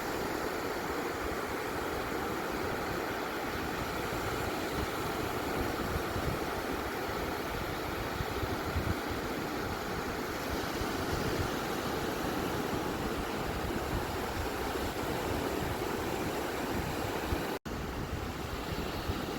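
Steady wash of beach waves and surf, an even rushing noise without distinct breaks, which cuts out for an instant near the end.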